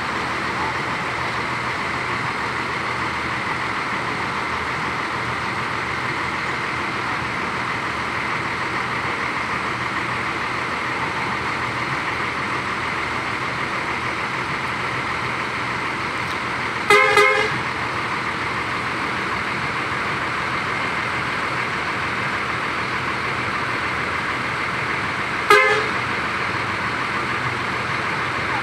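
Steady engine noise of buses idling, with a short vehicle horn blast about 17 seconds in and a second, shorter blast near the end.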